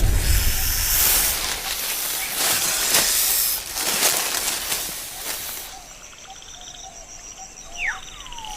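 Loud breathy hissing and rustling with many sharp crackles for about five seconds, then fading to a quieter outdoor background with a steady high insect-like tone and one short sweeping bird call near the end.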